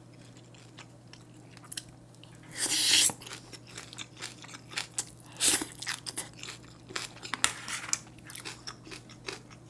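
Close-miked chewing of a large mouthful of bibimbap (rice mixed with lettuce, greens and meat), with crunching and wet mouth clicks throughout and a louder noisy burst about three seconds in.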